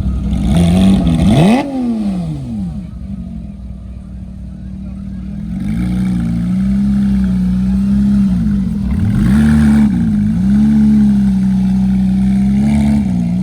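A car engine revved once sharply near the start, the pitch rising and falling away, then running steadily with another brief rev about nine seconds in and a small blip near the end.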